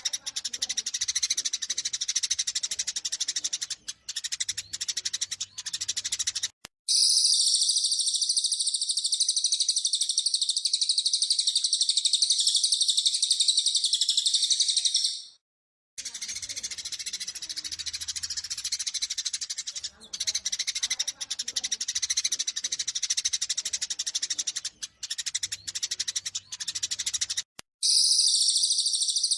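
Eurasian tree sparrows chattering in dense, rapid, excited chirps as they do when fighting, spliced with stretches of a very high, continuous, shrill trilling from another small bird, the cililin. The recording switches abruptly between the two about 7 seconds in, at about 16 seconds, and again near the end.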